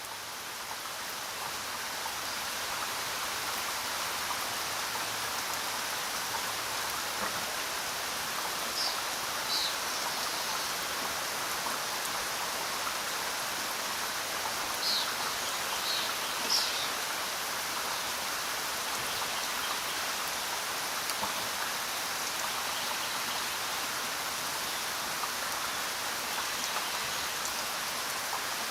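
Steady rain falling, an even dense hiss that swells up over the first few seconds. A few short high chirps stand out about a third of the way in and again a little past the middle.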